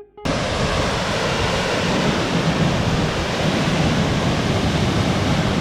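Triberg's multi-tiered waterfall on the Gutach, a loud, steady rush of falling water that cuts in suddenly just after the start.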